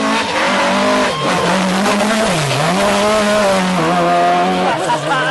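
Rally car engine running hard at high revs, its note dipping briefly about two and a half seconds in before climbing back, with a steady hiss underneath.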